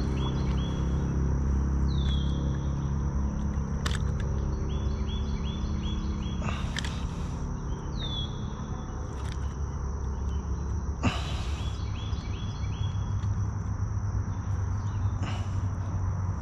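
Birds calling outdoors: repeated short runs of chirps and two falling whistled notes, over a steady high insect drone and a low rumble, with a few sharp clicks.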